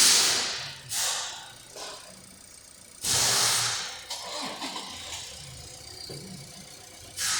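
Hyundai Tucson 2.0-litre engine running at idle, overlaid by loud hissing rushes that each fade over about a second: one at the start, then about one, three and seven seconds in.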